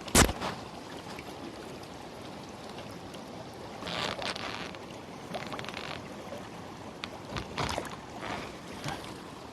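Mountain stream flowing steadily, with a sharp knock near the start and a few brief scuffs and rustles later on.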